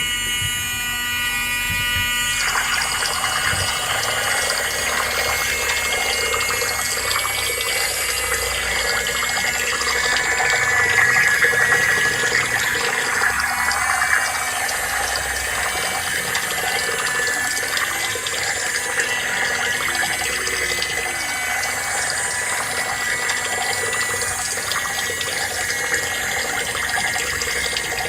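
Mini water pump running, with water splashing and flowing and a thin, steady motor whine.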